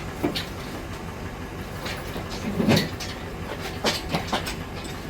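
Scattered metal clanks and rattles from the engine hoist and its chain as the pulled engine is handled, the loudest about halfway through, over a steady low rumble.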